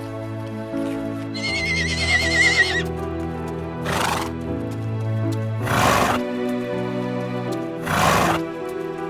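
A horse whinnying: a quavering high call early on, followed by three loud breathy bursts about two seconds apart, over steady background music.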